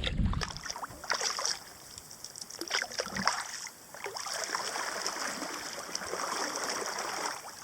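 Kayak paddle strokes in a creek: a composite paddle's blades dipping and pulling through the water, with dripping and light splashes.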